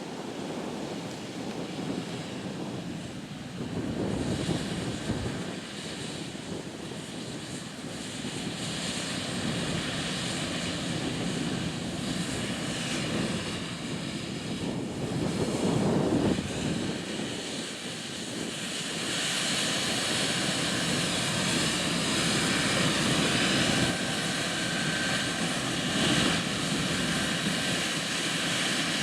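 Diesel-powered harvest machinery running steadily in a corn field, a continuous engine-and-machine noise that grows gradually louder.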